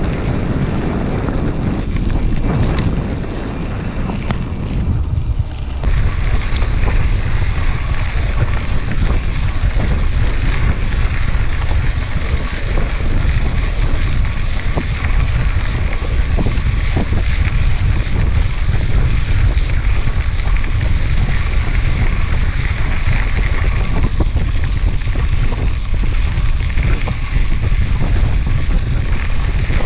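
Wind buffeting the microphone of a camera riding along on a moving mountain bike, a steady loud rumble with hiss, broken by scattered knocks and rattles from the bike over rough ground.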